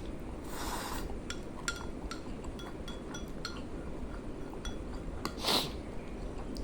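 Cutlery clinking lightly against a dish while eating noodles: a run of about ten small ringing taps, with two short breathy rushes, one about half a second in and one near the end.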